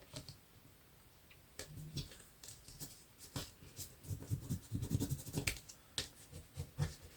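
Paper and small snippets of adhesive tape being handled and pressed on: scattered light clicks, taps and rustles, busiest between about four and six seconds in.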